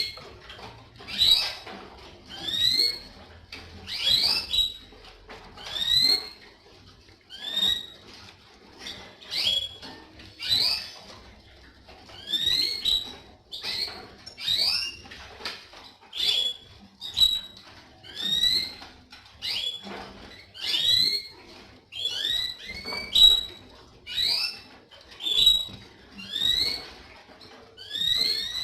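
Caged canary giving short, rising chirp calls over and over, about one a second, each a quick upward-sweeping note or two.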